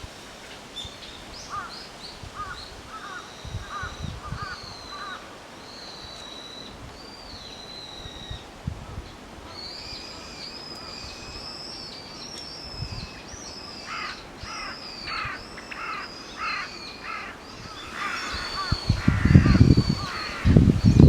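Wild birds calling around the water: high chirps and whistles throughout, with a run of repeated harsh calls about two-thirds of the way in. Loud low thumps or rumbles come near the end.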